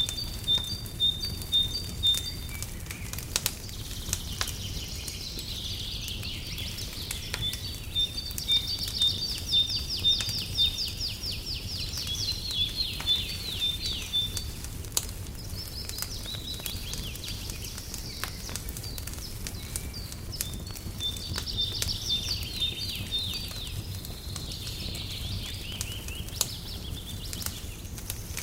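Songbirds singing, with runs of evenly repeated chirps and fast trills, over the crackle and pop of a wood fire and a steady low rumble.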